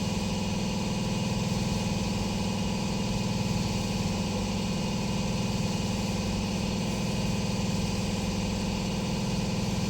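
Steady low hum made of several fixed tones, unchanging in level, from the electric truck's charging system while it exports DC power to a car in a vehicle-to-vehicle charge session.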